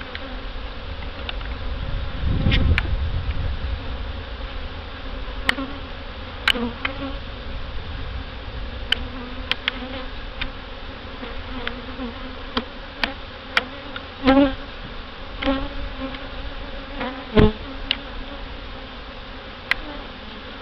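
Honey bees buzzing in a steady hum around an open hive, with scattered sharp clicks and knocks. There is a brief low rumble about two and a half seconds in.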